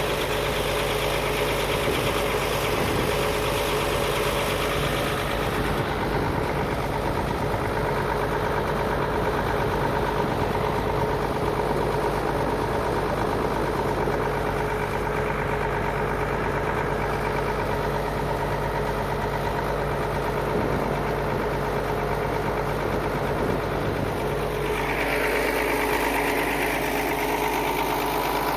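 Tractor engine running steadily, a constant drone with a steady whine over it; some added higher noise comes in near the end.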